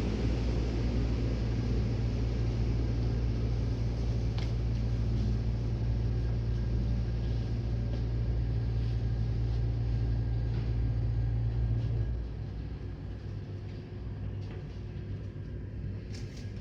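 Automatic car wash machinery running with a steady low rumble. The rumble drops off about twelve seconds in, leaving a quieter hum.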